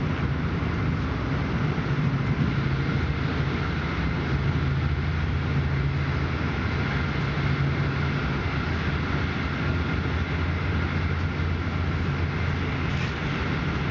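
Passenger train running at speed, heard from inside the carriage: a steady noise with a low hum that holds even throughout.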